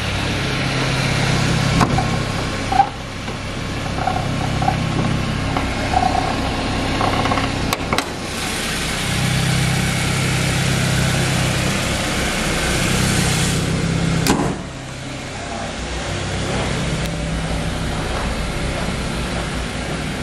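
A 2010 Suzuki SX4's engine idling steadily, with a louder hiss for a few seconds while close to the open engine bay, and a few sharp clicks.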